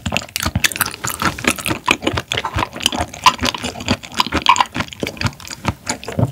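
Close-miked wet chewing of seafood: a dense run of irregular squelching and smacking mouth sounds.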